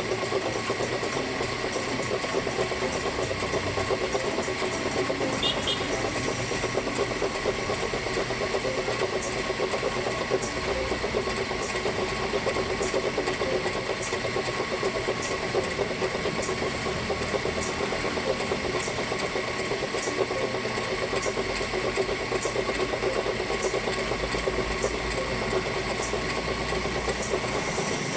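Machinery running steadily: an even hum with a few fixed tones and a faint high tick about once a second.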